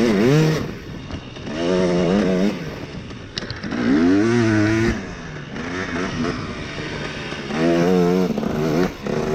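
Dirt bike engine revving in about four throttle bursts, its pitch climbing and falling with each one, with a short sharp click near the middle.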